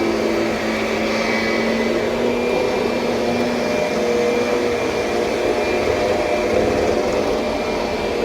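2007 Kirby Sentria upright vacuum cleaner running steadily, its motor hum shifting a little in pitch.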